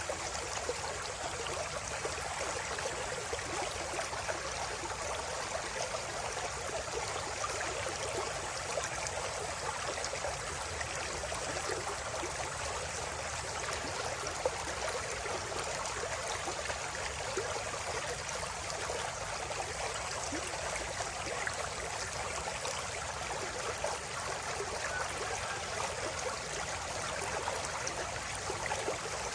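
River water flowing, a steady even rush with no pauses.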